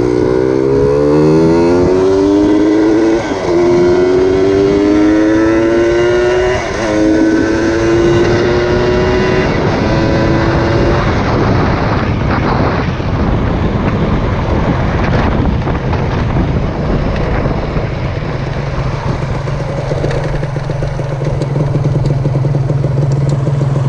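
Honda Dash 125 two-stroke motorcycle engine accelerating through the gears, its pitch climbing and dropping at two gear changes about three and seven seconds in. It then runs on more evenly under rushing noise, settling into a steady low tone in the last few seconds.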